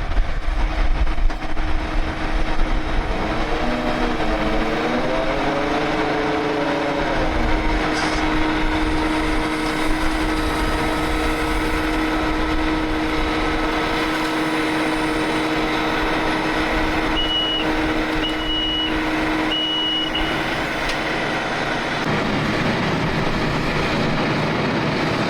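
Heavy equipment engine running steadily at a construction site, with three short backup-alarm beeps about two-thirds of the way in.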